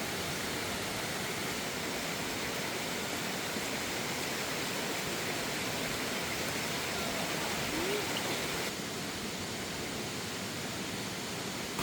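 Steady rushing noise of fast-flowing water; about nine seconds in the hiss turns duller and a little quieter.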